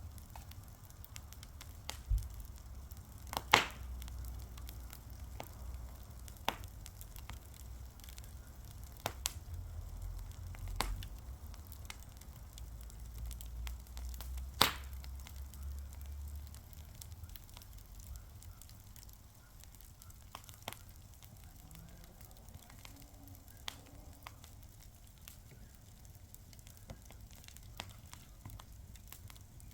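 Fire crackling, with scattered sharp pops; the loudest come about three and a half and fifteen seconds in. A low rumble runs underneath through the first half.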